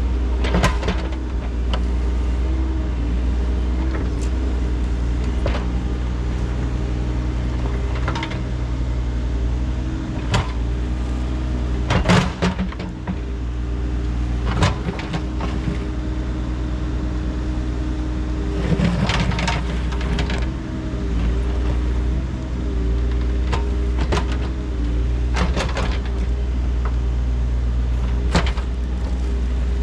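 The engine of earthmoving equipment runs steadily while digging. About a dozen sharp clanks and scrapes of the bucket on stone and debris sound over it, the loudest about 12 and 19 seconds in.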